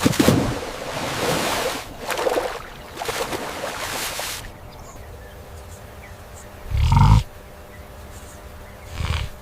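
A large wild animal calling: three long rasping, breathy calls, then two short, deep grunts near the end.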